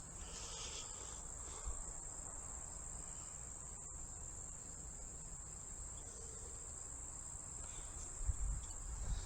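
Steady, high-pitched chorus of insects trilling without a break, with a few soft low thumps near the end.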